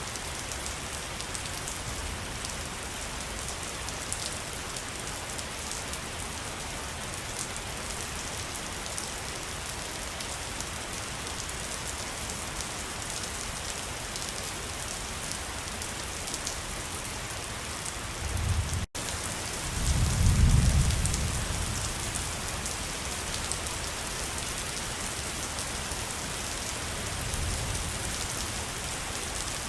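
Waterfall's steady rushing hiss of falling water. About two-thirds of the way in, the sound drops out for an instant and is followed by a short low rumble.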